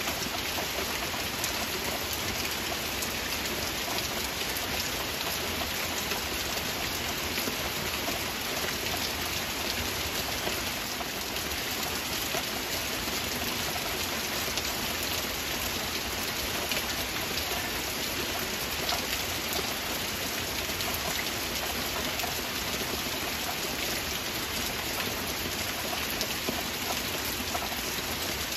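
Heavy rain falling steadily: an even hiss dotted with the patter of single drops.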